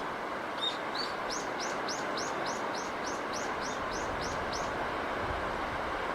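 A small bird repeats a short high chirp about three times a second for a few seconds, over a steady rushing wash of noise.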